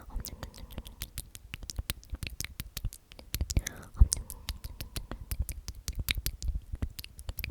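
Close-miked whispered 'omnomnom' repeated, with many quick wet mouth clicks and smacks between the whispered syllables.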